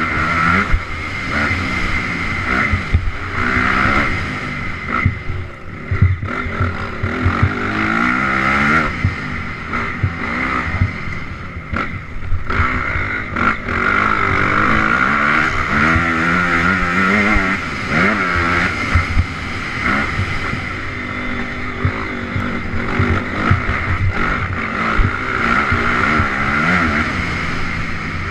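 Honda CRF250R dirt bike's single-cylinder four-stroke engine revving up and down over and over, with many short knocks and rattles underneath.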